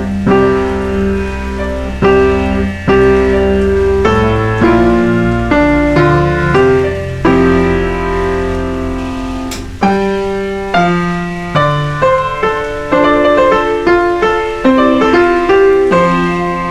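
Background piano music, slow chords struck every second or two with quicker notes near the end.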